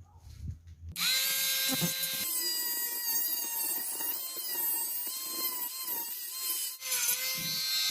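Maktec MT081 compact cordless drill, run on an 18 V Makita LXT battery, test-run with a high motor whine. It starts suddenly about a second in and settles slightly lower in pitch a second later. Near the end it stops for a moment and starts again.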